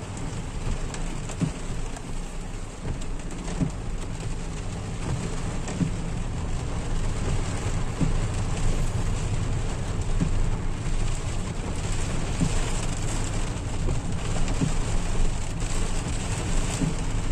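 Steady rain falling, with many small drop ticks over a continuous low rumble.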